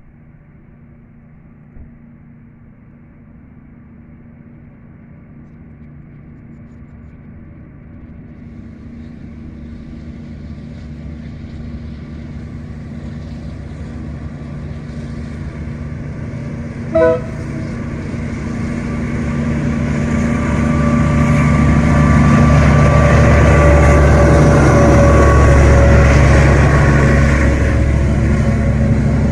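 KiwiRail container freight train approaching behind its diesel locomotive, the engine's steady drone growing louder throughout. A single short horn toot comes a little past the middle. In the last third the train passes close, with the locomotive and wagons loud.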